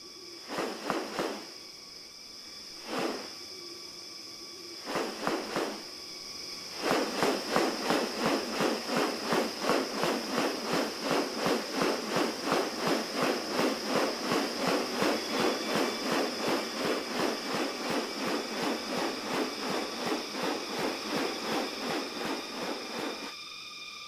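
Rainforest sound: a steady high insect drone with a few scattered short calls. From about seven seconds in it is joined by a long, rapid train of raspy pulses, about three a second, which stops a second before the end.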